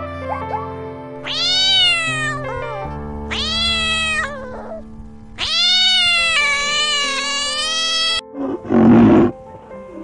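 Domestic cat meowing three times, long drawn-out calls that rise and then fall in pitch, the last the longest, over background music. A short loud rough burst follows near the end.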